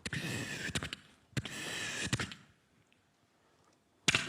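Mouth-made sound effects: two hissing, noisy bursts of about a second each with a few sharp clicks in them, then a sharp click near the end.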